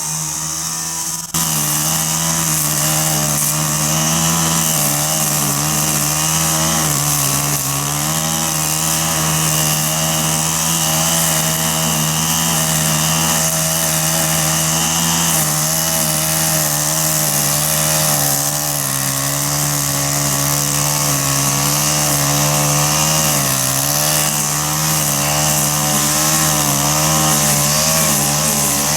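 Gas string trimmer (weed eater) with a small two-stroke engine, running at high speed through tall grass. The pitch wavers and dips now and then as it takes load.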